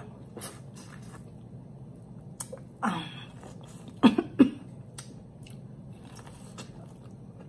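Close-up mouth sounds of biting and chewing kernels off a corn on the cob: scattered wet clicks and smacks. A short voice-like sound comes near three seconds in, and two sharp, loud sounds a little after four seconds.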